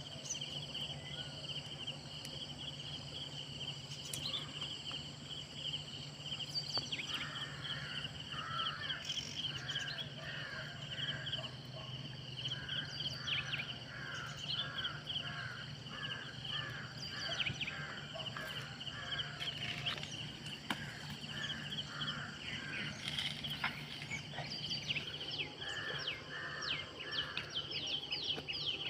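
Outdoor ambience of insects trilling steadily, with a bird giving a long run of short repeated calls and quick high chirps near the end, over a faint low steady hum.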